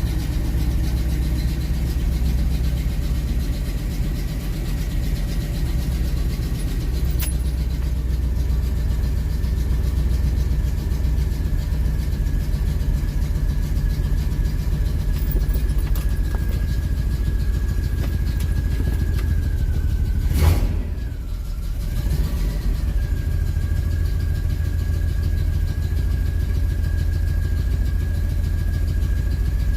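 1968 Oldsmobile 442's V8 idling steadily, with a thin steady high whine over it. A single sharp knock comes about two-thirds of the way through, and the sound drops briefly before settling back to the same idle.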